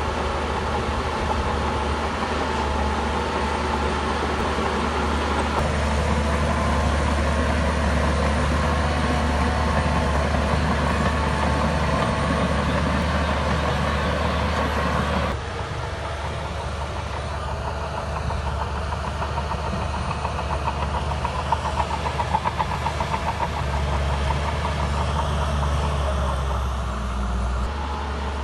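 Heavy diesel engine of a Shantui bulldozer running steadily as it works, with an abrupt change to a quieter, lower sound about halfway through and a short run of rapid clattering clicks a few seconds later.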